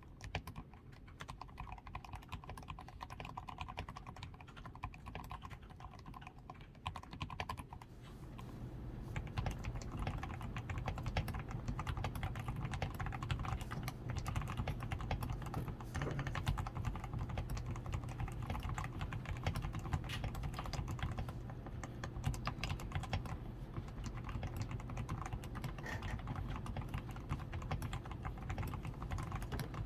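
Rapid, continuous typing on a DAREU A87 Pro mechanical keyboard. Its switches are lubed with Krytox 105 and it has a PCB tape mod, Poron foam and XDA keycaps. The keystrokes become denser and louder about eight seconds in.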